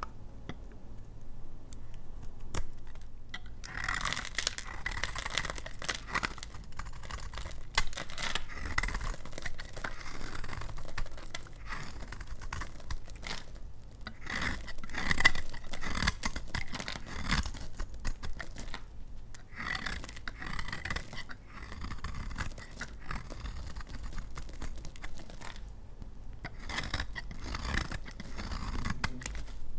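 A blade cutting through dry, hard household laundry soap, with dense crackling and scraping as the soap crumbles and splits. The first few seconds are quieter, and there are a few brief pauses between cuts.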